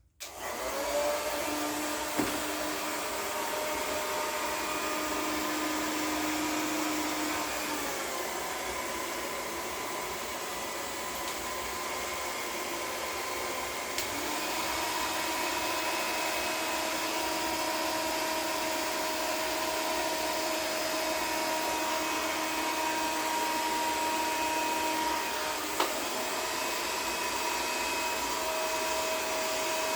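Handheld hair dryer switched on and running steadily, a rushing hiss with a faint motor whine that shifts a little in pitch a few times, used to blow wet acrylic paint across a canvas.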